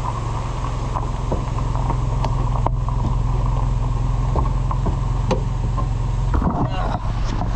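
Steady low engine and road hum of a car, with scattered small clicks and rattles and some louder handling noise near the end.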